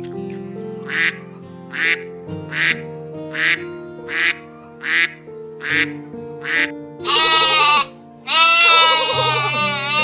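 A duck quacking eight times at an even pace, just under one quack a second, over background music with held notes. Near the end, two long sheep bleats take over and are louder than the quacks.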